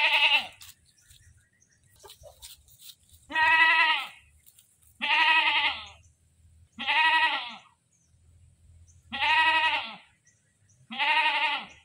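A goat bleating loudly, six separate calls spaced about one and a half to two seconds apart, each a wavering, nasal 'mbeek' that holds its pitch and drops at the end.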